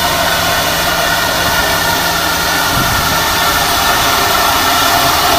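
Class 24 2-8-4 steam locomotive and its train making a steady, loud hiss-like noise with no distinct beats.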